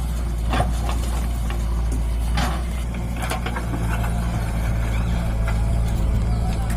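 John Deere 5204 tractor's three-cylinder diesel engine running with a steady low drone, with a few short knocks or rattles over it.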